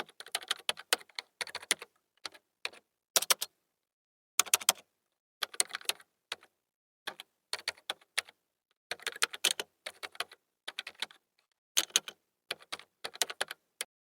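Sharp, dry clicks in short irregular clusters, several in quick succession, then brief pauses.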